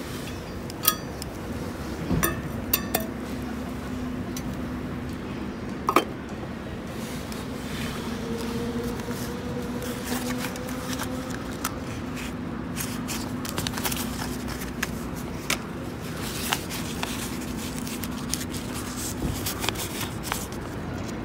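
Metal camp cookware and utensils clinking and scraping now and then, with a few sharp knocks in the first six seconds, over a steady low hum.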